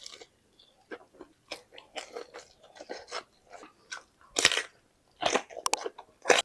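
Close-up crunching and chewing of crispy fan-cut fried chicken (ayam goreng kipas): a string of short crisp bites and chews, with louder crunches about four and a half and five seconds in and again near the end.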